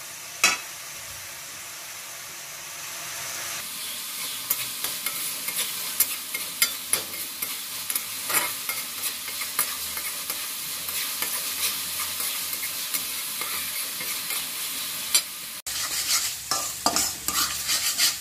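Onion-tomato masala sizzling in hot oil in a metal kadhai while a metal spoon stirs and scrapes it, with frequent clicks and scrapes of the spoon against the pan. The masala is being fried down until the oil starts to separate.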